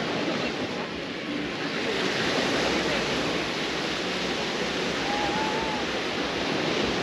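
Sea surf washing onto the beach, a steady rushing noise.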